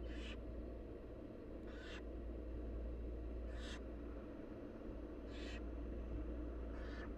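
Barn owl nestlings giving rasping, hissing food-begging calls ("snoring"), short hisses repeating about every two seconds over a steady low hum.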